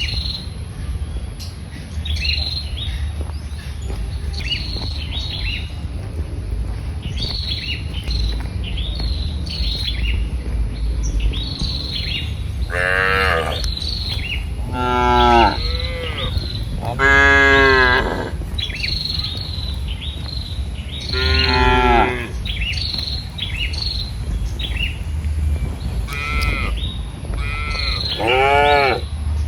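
Cattle mooing, several long calls in the second half, with small birds chirping repeatedly throughout over a steady low rumble.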